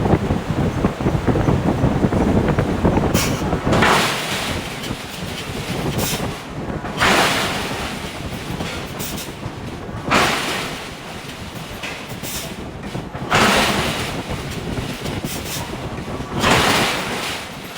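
Heavy forge-shop machinery noise from a hydraulic forging hammer at work: a dense rumble, then five sudden loud bursts at a steady pace of about one every three seconds, each dying away quickly.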